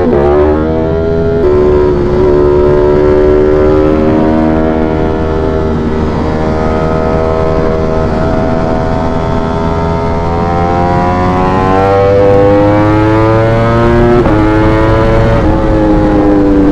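V4 sport motorcycle engine under way at road speed, its note stepping in pitch near the start and again about two thirds through, and climbing slowly in the middle as the bike gathers speed.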